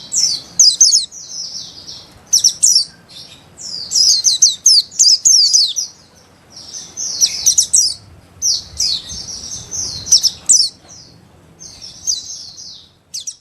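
White-eye (pleci) singing: bursts of rapid, high twittering notes in quick phrases, broken by short pauses.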